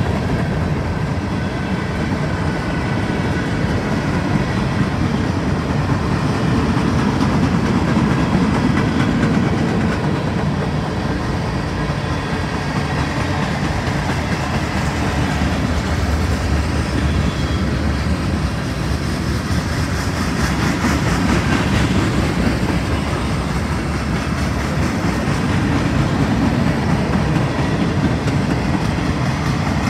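CSX manifest freight train's cars rolling past: a steady rumble of steel wheels on the rails.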